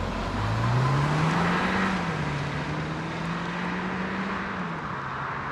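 Kia Seltos's four-cylinder petrol engine pulling as the car accelerates, its note rising over the first two seconds and then holding, dipping slightly near the end, over tyre and road noise.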